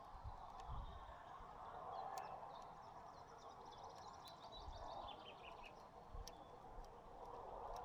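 Small songbirds at a seed feeder: a faint run of quick, high twittering chirps in the middle that steps down in pitch at its end. Scattered sharp ticks sound over steady background noise.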